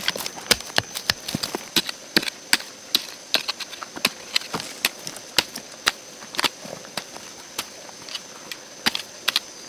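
Irregular sharp taps and knocks, several a second, over a steady high-pitched hum.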